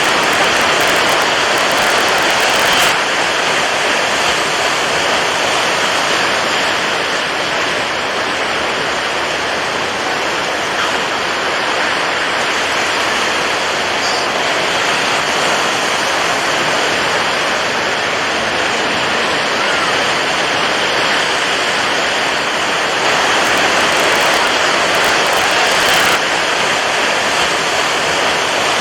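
Steady rush of water, a constant even wash with no breaks or separate wave crashes, a little louder near the start and again about three-quarters of the way through.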